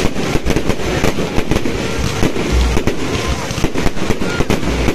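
Fireworks going off in quick succession, many sharp bangs and crackles a second over a continuous noisy rumble, with faint whistling as shells rise.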